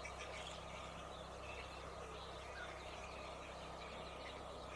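Faint steady background noise: an even hiss with a low hum underneath and no distinct sounds.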